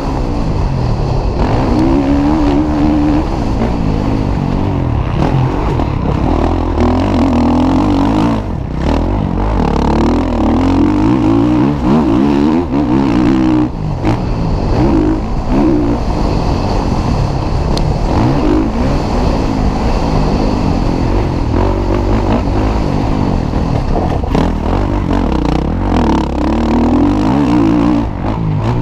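Motocross bikes racing, their engines revving up and down over and over as they accelerate and back off.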